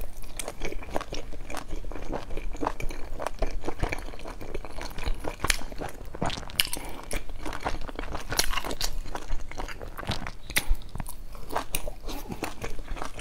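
A person biting and chewing dumplings: a steady run of short, irregular clicks and crackles from the mouth.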